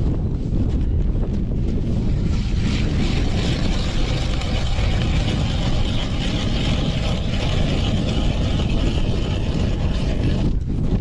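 Strong wind buffeting the microphone. From about two seconds in until shortly before the end, a steadier hissing, grinding sound is layered over it.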